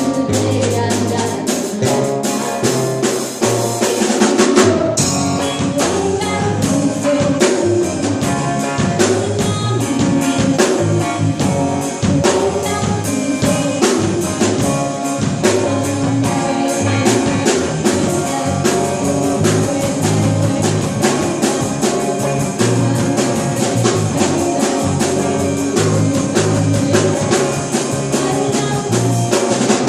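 Band music with a drum kit keeping a steady beat over guitar and bass, with no clear vocal line.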